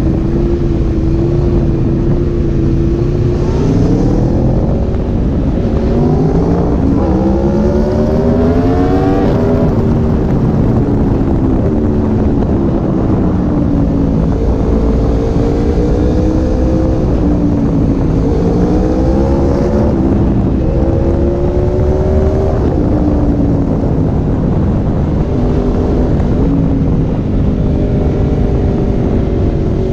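2014 Aprilia RSV4 APRC's V4 engine under way, heard from its tank-mounted camera: the engine note holds steady, then climbs in several rising runs through the gears, drops back off the throttle, and climbs again twice, over a steady low rumble of wind and road.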